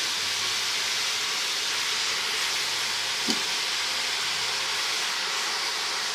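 Turnips and spinach frying in oil and masala in a pan, with a steady sizzle and one light knock about three seconds in.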